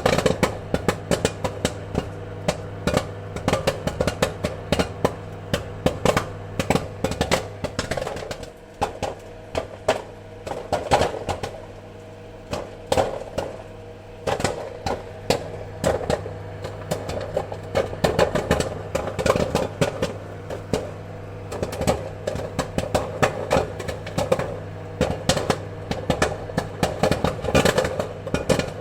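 Popcorn kernels popping in quick, irregular succession, many pops a second, thinning a little partway through, over a steady low hum.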